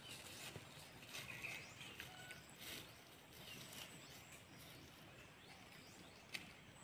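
Faint outdoor rural ambience with scattered short bird chirps and one sharp click about six seconds in.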